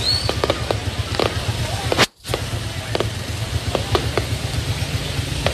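Aerial fireworks going off: a rapid, irregular series of pops and crackles over a low steady rumble, with a brief break in the sound about two seconds in.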